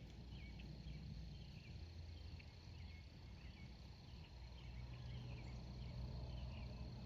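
Faint outdoor ambience of insects chirping: a steady high-pitched drone with many short, quick chirps over it, and a low rumble underneath.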